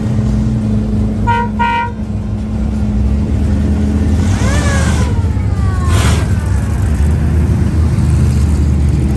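Car engines rumbling steadily, with two short car-horn toots about a second in. A few seconds later a pitched tone slides downward over a burst of hiss.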